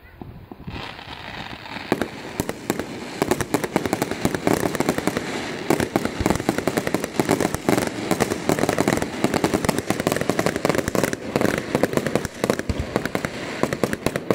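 Fireworks display going off close by: a dense barrage of sharp bangs over a continuous crackle, starting about a second in and running on without a break.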